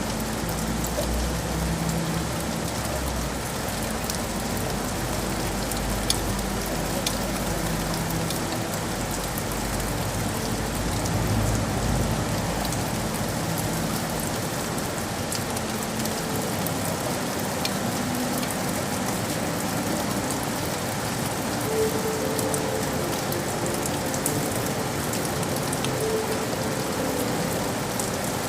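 Steady rain pattering on hard surfaces, with scattered individual drops ticking. A low rumble under it in the first half fades out.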